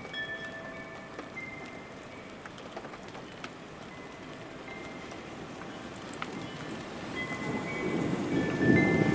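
Steady rain falling, with a few wind-chime tones ringing faintly. Near the end a low rumble of thunder swells up and becomes the loudest sound.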